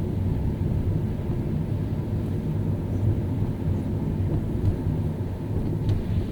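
Car driving on a wet road in the rain: a steady low rumble of engine and tyre noise, with a few faint ticks near the end.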